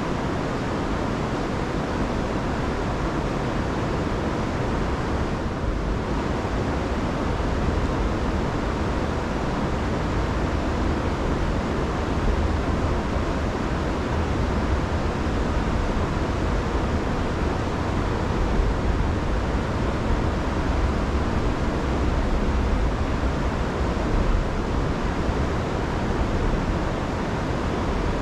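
Rain-swollen river rushing in spate, a steady full roar of water heaviest in the low end, with no breaks or changes.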